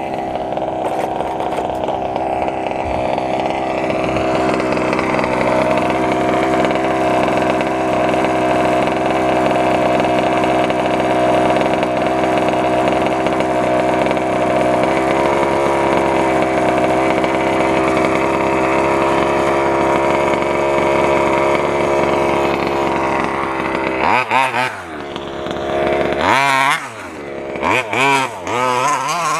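Gas two-stroke engine of an FG 1:6-scale stadium truck running at a steady idle, then revved up and down in several quick throttle blips over the last few seconds.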